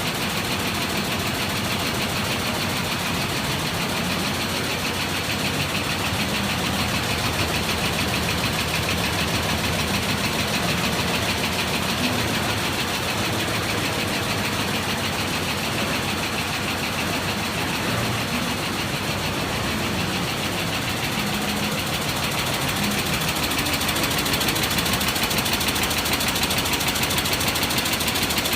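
Multi-needle shuttle quilting machine running, its needle bar and shuttles stitching in a fast, steady mechanical clatter.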